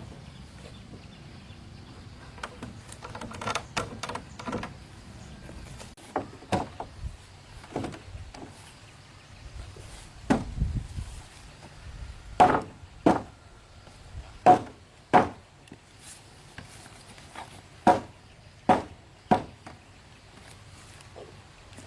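Irregular sharp blows of a tool on wood, each with a short ring. They are sparse and lighter at first, then louder and more frequent from about halfway, with a duller, heavier thud a little before.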